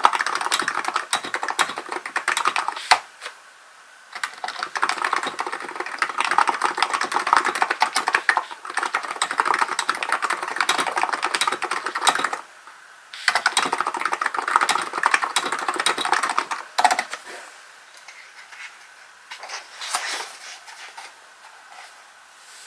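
Hansung GK898B electro-capacitive keyboard being typed on in fast, continuous runs of keystrokes. The runs break off briefly about three seconds and twelve seconds in, and thin out to scattered keystrokes over the last few seconds.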